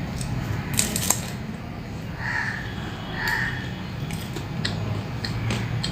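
A crow cawing twice, about two and three seconds in, over a steady low hum, with a few sharp clicks near the start.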